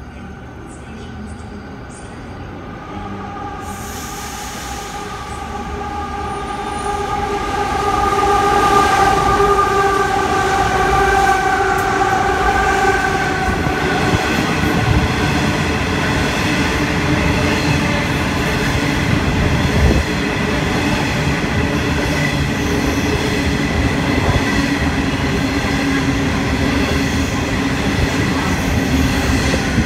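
Freight train with three diesel locomotives approaching and running through, growing louder over the first several seconds with a steady pitched note that dips slightly as it passes. Then a long string of hopper wagons rolls past, the wheels rumbling steadily on the rails.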